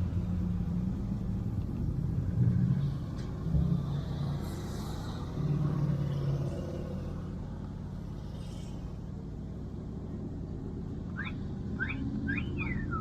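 A car engine running at idle, a steady low rumble whose pitch comes and goes. Near the end come a few short, quickly rising chirps.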